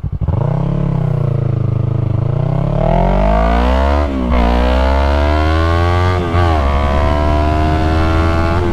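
Yamaha MT-03's parallel-twin engine through an aftermarket full-system exhaust, revving up under acceleration. It shifts up twice, about four and six seconds in, each shift dropping the revs before they climb again, then holds nearly steady near the end.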